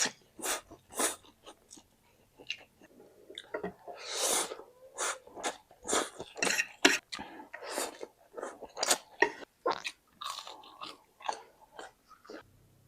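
Close-up mukbang eating sounds: a person chewing and smacking wet, chewy food, with irregular mouth clicks and a few longer, hissier sucking sounds in between.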